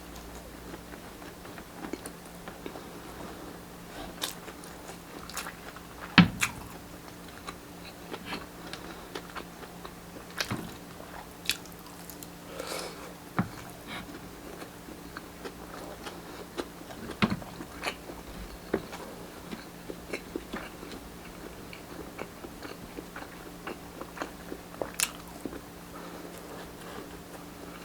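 Close-up chewing and biting of grilled street-food barbecue, with irregular wet smacks and crunchy clicks, the sharpest about six seconds in. A faint steady low hum runs underneath.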